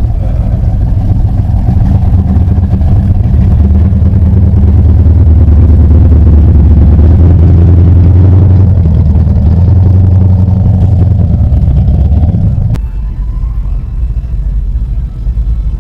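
A car engine running with a deep, steady exhaust rumble, loudest around the middle, cutting off abruptly about thirteen seconds in.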